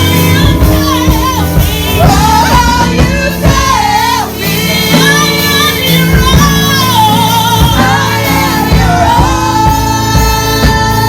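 Church praise music: a woman singing a melodic line over steady instrumental accompaniment.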